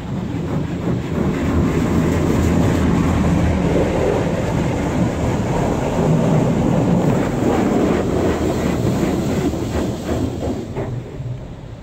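Automatic car wash rinse water spraying and drumming on the car's roof and body, heard from inside the cabin as a loud, steady rumbling rush. It swells about a second in and eases off near the end as the spray passes.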